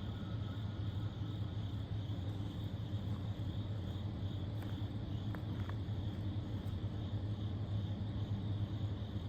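Steady low drone of a freight train's diesel locomotive engines working slowly.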